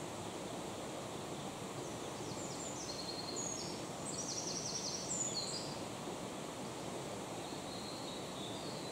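Songbird singing: a run of short, high notes and quick trills from about two seconds in, then a few fainter notes near the end, over a steady background rustle.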